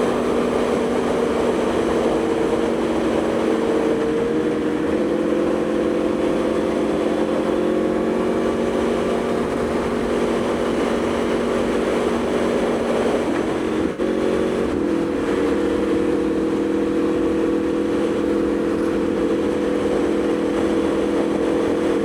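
Aprilia Tuono V4 motorcycle's V4 engine running at a steady cruise on cruise control, its note holding even; it dips briefly and settles at a slightly different pitch about two-thirds of the way through.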